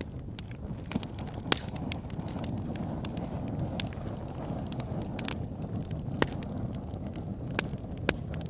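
Wood fire burning in a fireplace: a steady low rumble of the flames with frequent crackles and sharp pops from the burning logs, a few louder snaps standing out.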